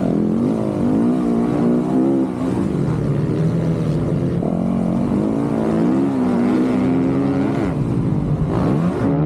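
Dirt bike engine revving hard under load, its pitch climbing and dropping again and again as the throttle opens and closes and the gears change.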